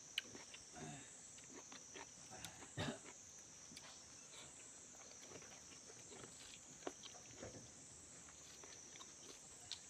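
Faint close-up chewing and mouth clicks of someone eating, with louder smacks about three and seven seconds in, over a steady high hiss.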